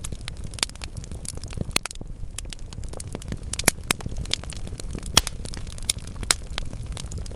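Wood fire crackling in a fireplace: logs burning with a steady low rumble and frequent sharp snaps and pops, three louder pops in the second half.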